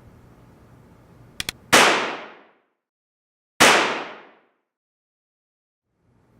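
Two gunshots about two seconds apart, each a sharp crack with a fading ring. Two quick clicks come just before the first shot.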